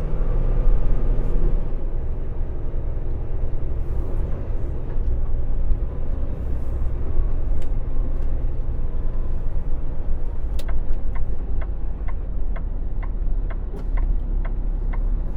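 Semi-truck engine and road noise heard from inside the cab while driving, a steady low rumble. From about two-thirds of the way through, a regular ticking comes in at about three clicks a second.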